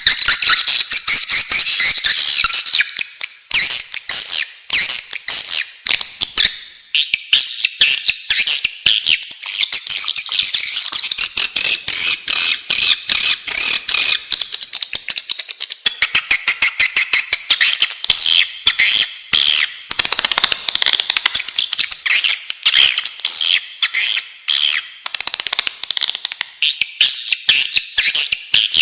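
Swiftlets twittering: a loud, dense, unbroken chatter of rapid high chirps and clicks from many birds. This is a swiftlet call recording of the kind played to lure swiftlets into nesting houses.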